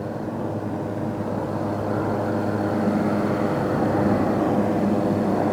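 Aircraft engine drone, a steady hum that grows slowly louder as the plane approaches.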